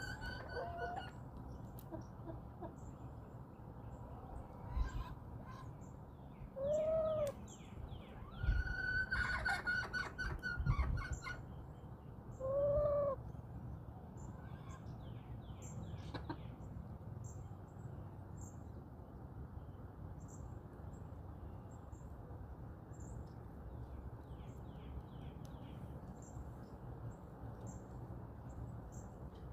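Backyard chickens clucking, with short hen calls about seven and thirteen seconds in and a longer, louder call from about nine to eleven seconds. Small wild birds chirp faintly throughout over a steady low outdoor background.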